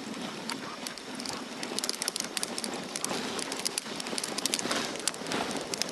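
Dog sled running over snow: a steady hiss and crunch of the runners, with many quick, irregular ticks and crackles.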